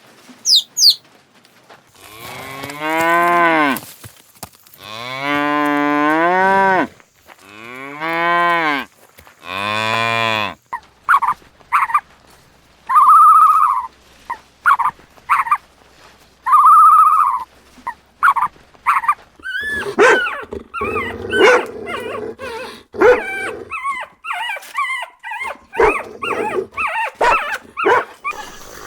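Cattle mooing: four long, low moos one after another. After these come clicks, two shorter higher-pitched calls and then a rapid run of short animal calls.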